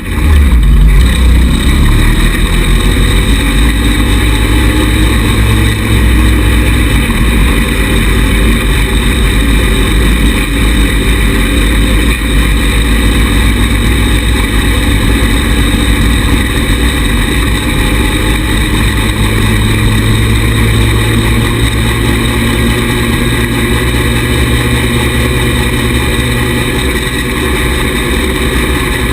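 Small 110cc buggy engine running steadily with a heavy low rumble, getting louder just after the start.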